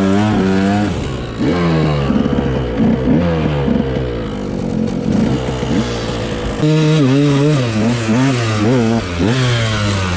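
Dirt bike engine revving hard and easing off over and over, its pitch climbing and dropping with the throttle and gear changes as it rides through sand. It gets louder about six and a half seconds in.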